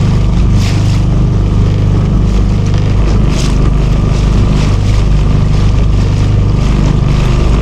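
Small motorboat's engine running steadily at an even speed, a low drone, with a couple of brief hissing swishes of water or wind.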